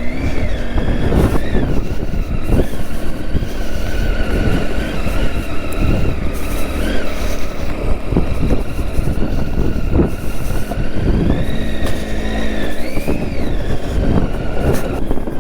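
Triumph Tiger 800's three-cylinder engine running under constantly changing throttle on a rough off-road trail, its pitch rising and falling, over a steady low rumble with occasional knocks from the rough ground.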